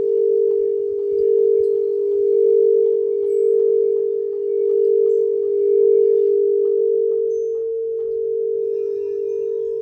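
Crystal singing bowls ringing in a sustained hum, a strong low tone that swells and fades slowly as it beats, with faint higher overtones and a few light taps.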